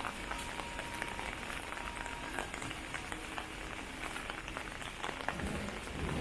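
Rain falling steadily, an even hiss scattered with many small ticks of drops. A low rumble rises near the end.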